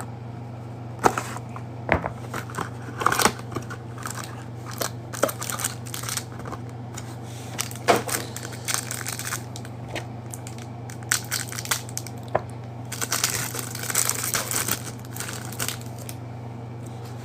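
Trading-card packaging being opened and handled: a Prizm football hanger box and its packs give irregular crinkling, crackling and tearing of cardboard and plastic wrapper, busier for a couple of seconds near the end. A steady low hum runs underneath.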